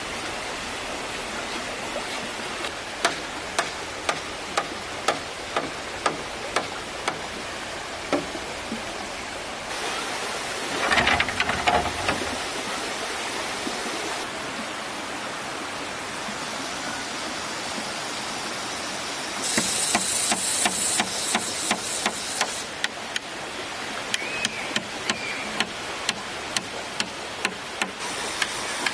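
Steadily flowing stream with a run of sharp wooden knocks, about one or two a second, as bamboo is struck during building work. About eleven seconds in there is a louder rustling burst, and around twenty seconds in a harsh, hissing scrape lasts a few seconds.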